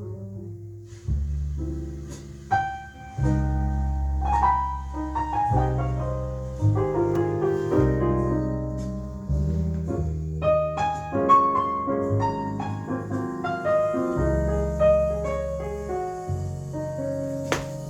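Piano music played back through Klipsch Forte III loudspeakers driven by a Rogue Audio Cronus Magnum III amplifier: a steady run of struck, ringing notes over held bass notes.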